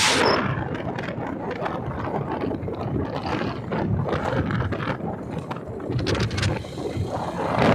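Noise of a bike on the move, with wind buffeting the microphone in uneven gusts.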